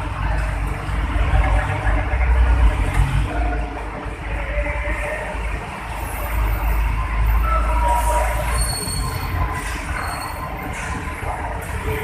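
Hino truck's diesel engine running with a heavy low rumble as it drives out of a ship. Short high hisses and squeals come in the second half, strongest about 8 seconds in.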